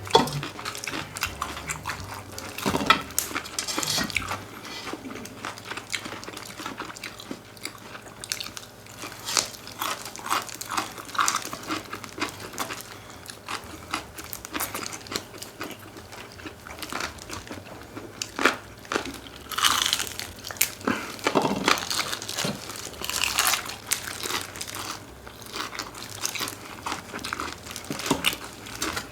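Close-miked eating sounds: biting, crunching and chewing of chicken, with frequent sharp crackles and clicks.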